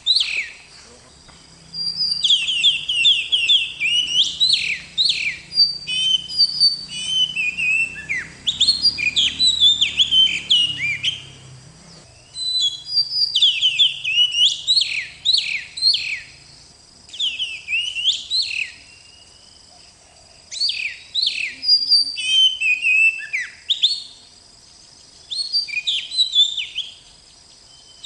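Oriental magpie-robin (kacer) singing: fast runs of varied whistles, chirps and trills in bursts of several seconds with short pauses between.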